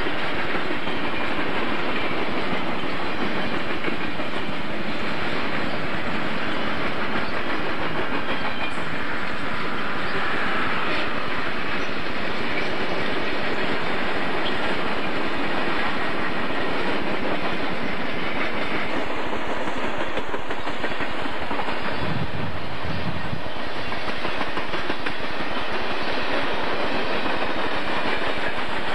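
Freight train's boxcars and tank cars rolling past: a steady rumble of wheels on rail with the clickety-clack of wheels over the rail joints.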